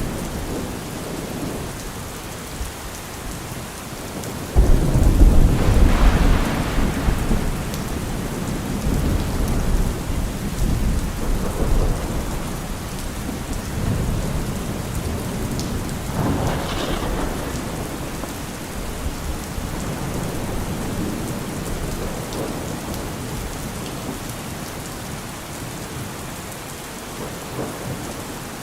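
Heavy rain falling steadily on a car roof, with thunder: a sudden loud clap about five seconds in that rumbles on for several seconds, then a second, weaker rumble just past halfway.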